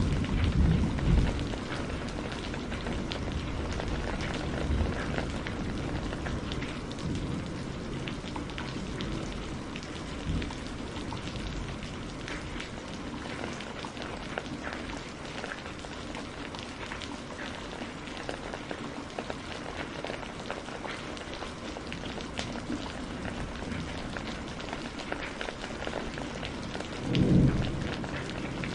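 Steady rain falling, with low thunder rumbles: one dying away at the start and another short one near the end.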